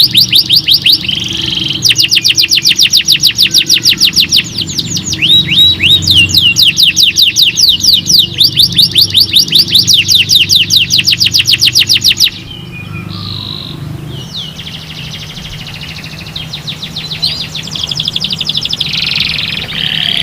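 Domestic canary singing long, fast trills of rapidly repeated falling notes, about six to eight a second. The bird breaks off about two-thirds of the way through into softer twittering, then starts trilling again near the end.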